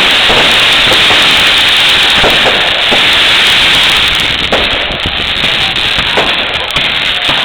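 Fireworks going off in a dense continuous crackle, with scattered sharper pops and bangs. It eases a little about halfway through.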